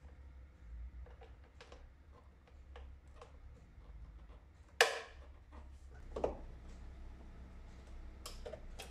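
Light scattered clicks and knocks of hands refitting the plastic air-intake parts of a car's engine bay, with a sharp louder knock a little under five seconds in and another about a second and a half later.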